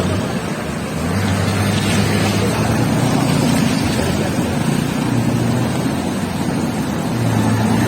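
Motorcycle engine running under a loud, steady rushing noise, its low hum shifting in pitch a little about a second in and again near the end.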